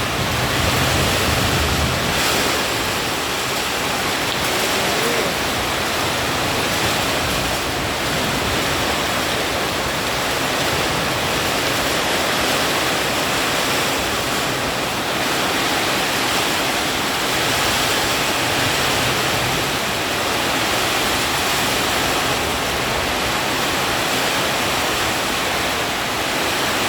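Heavy rain pouring down in strong wind: a steady, even hiss of rainfall with no letup.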